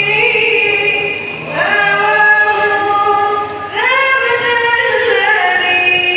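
A high voice singing an Arabic devotional qasida (nasheed) in long, ornamented held notes that glide from pitch to pitch, in three phrases.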